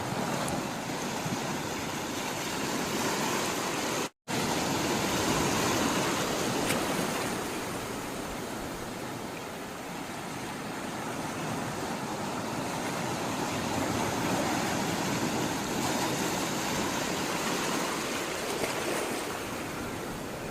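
Sea water rushing and washing, a steady noise that swells and eases every few seconds. The sound cuts out completely for a split second about four seconds in.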